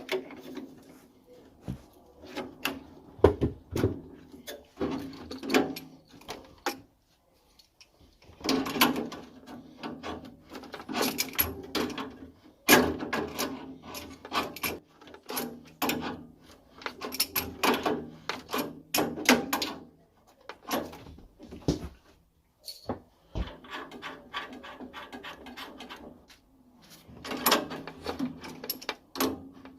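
Repeated clicks, knocks and clatter of hand tools and metal boiler parts being handled, in irregular bursts with short pauses.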